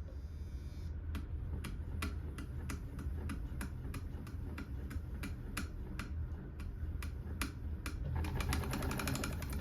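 Willcox & Gibbs chain-stitch sewing machine stitching slowly, with an even click about three times a second. It speeds up to a fast run of clicks near the end.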